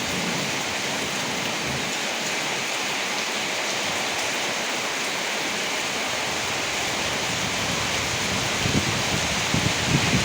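Steady heavy rain falling. Low rumbles of thunder come in near the end.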